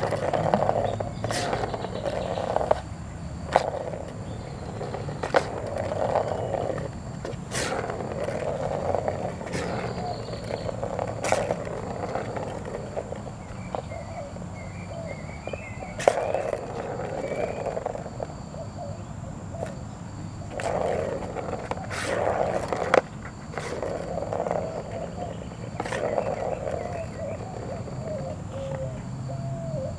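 A cat growling in repeated low rough bouts while playing with a toy, with sharp clicks now and then.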